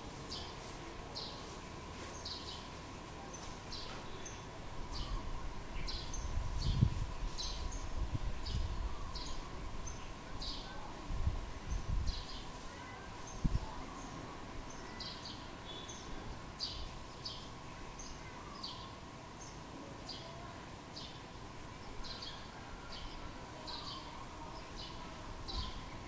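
Small birds chirping repeatedly, short high chirps in loose bouts of two or three a second, over a steady faint high-pitched hum. A few low rumbles come and go in the middle.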